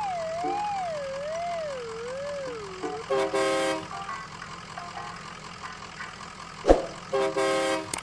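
Electronic toy-vehicle sound effects: a wavering siren tone that sinks in pitch and stops about three seconds in, then two short horn honks a few seconds apart, with a sharp knock just before the second honk.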